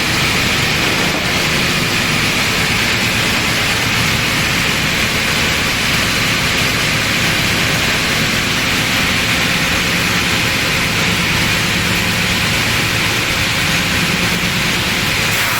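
Heavy-duty wide-belt calibration sander for plywood running: a loud, steady rushing noise over a low machine hum.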